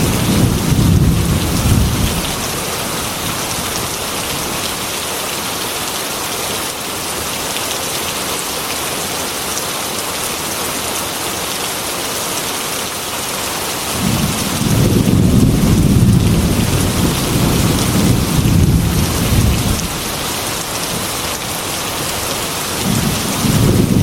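Heavy rain falling steadily on window glass, with rolling thunder. One rumble dies away about two seconds in, a longer one rolls from about fourteen to twenty seconds, and another builds near the end.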